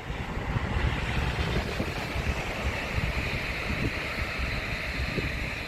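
DB ICE T (class 411) high-speed electric train passing: a steady rush of wheel and air noise that swells about a second in and eases near the end.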